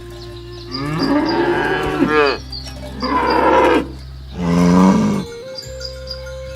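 Cattle mooing: three loud, drawn-out moos about a second apart, the first and longest ending with a falling pitch.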